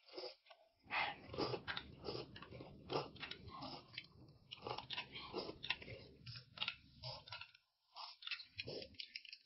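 A person chewing food close to the microphone, with irregular crunching bites several times a second and a brief pause about three-quarters of the way through.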